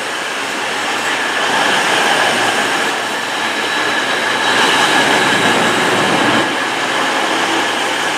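Class 220 Voyager diesel multiple unit pulling into the platform and slowing to a stop, its underfloor engines and wheels running with a steady high whine over the rumble.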